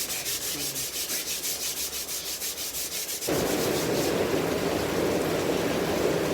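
Fine 220-grit sandpaper rubbed back and forth on the wooden face of a cricket bat in quick, even strokes, finishing the surface after a crack repair. About three seconds in the sanding cuts off and a steady rushing noise takes over.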